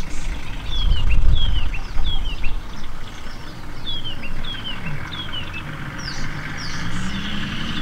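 Birds calling over and over with short, quick falling chirps, over a low rumble that is loudest about a second in. A low hum rises and falls near the end.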